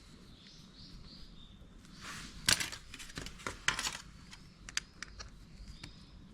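Hands at work on a scooter's front brake parts: rustling and a quick run of sharp, light clicks and taps about two to four seconds in, then a few single clicks. Birds chirp faintly in the background.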